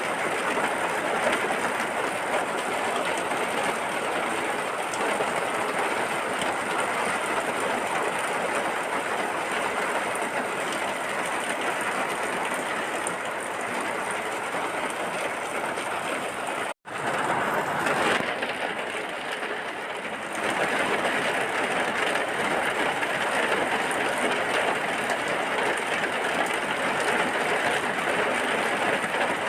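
Steady heavy rainfall as a dense, even hiss, which cuts out for an instant about two-thirds of the way through and then resumes.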